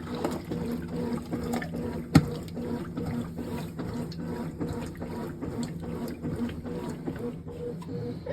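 Water running into a Brastemp 18 kg top-loading washing machine as it fills, over a steady low hum, with many light clicks and one sharper click about two seconds in.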